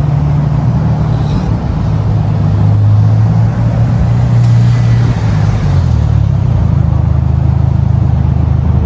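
A car's engine running with a deep, steady low rumble; its pitch drops a couple of times.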